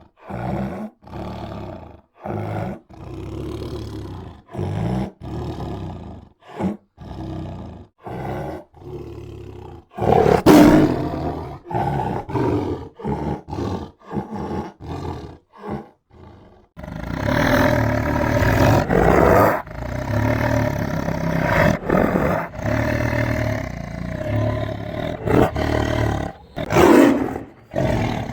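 Tiger growling and roaring: a run of short, separate growls about a second apart, with one loud roar about ten seconds in. From about seventeen seconds it turns into continuous, heavier growling and roaring, with another loud roar near the end.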